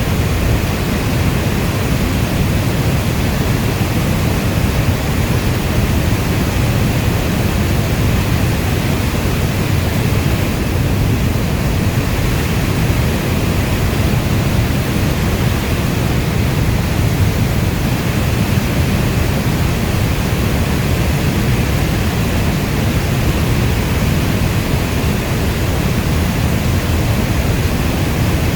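Steady heavy rainfall: a dense, even hiss weighted toward the low end, with no single drops or claps standing out.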